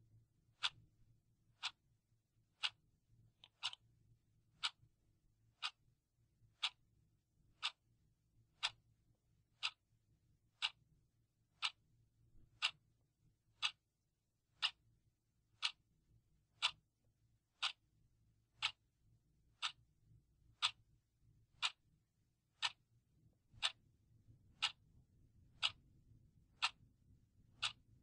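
A clock ticking steadily, about once a second.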